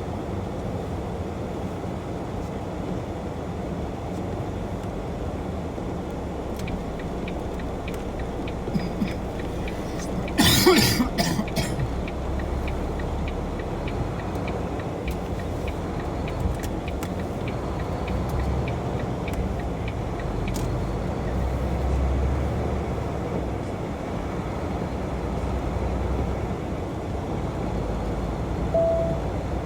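Car-hauler truck running, a steady low rumble, with a short burst of sharp cough-like noise about ten seconds in and a brief beep near the end.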